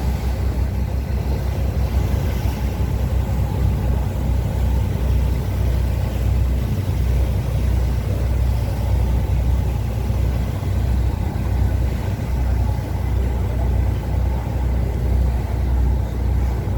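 Strong wind buffeting the microphone aboard a moving boat: a loud, unsteady low rumble with a rushing hiss over it.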